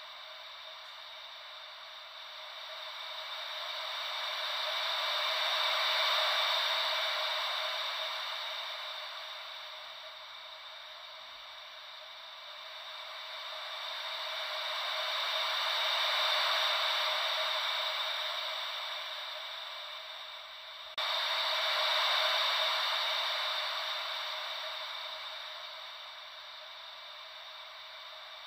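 Ocean-wave white noise: a soft hiss with no low rumble, swelling and fading slowly, about once every ten seconds. About three-quarters of the way through it jumps abruptly louder, where the looped recording is spliced.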